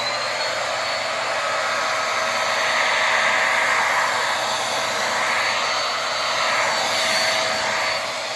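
Corded vacuum cleaner with a bristle head running over a rug: a steady motor whine with a high tone on top, its level rising and falling slightly as it is pushed back and forth.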